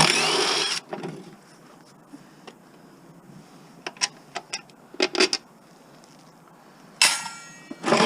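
Power drill fitted with a socket extension running in short bursts, spinning out the bolts that hold a gas lawn mower's engine to its deck. One burst comes at the start and another about seven seconds in, with a few sharp metal clicks in between.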